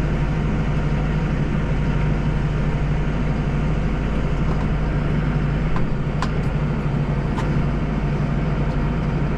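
Deutz tractor engine running steadily under snowblowing work, with two faint sharp ticks about six and seven and a half seconds in.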